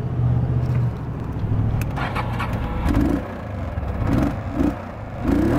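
A vehicle engine running steadily, with a few short louder bursts in the second half.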